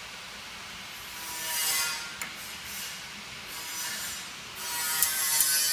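DPP-88 blister packing machine: scraping and rubbing noise swells and fades with a single click, then a motor-like whine starts near the end with a few sharp clicks.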